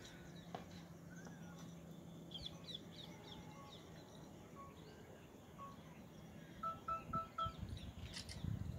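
Faint open-air ambience with birds calling: a run of quick high chirps, then four short, evenly spaced notes about three-quarters of the way through. A faint low hum runs under the first half, and a few low bumps come near the end.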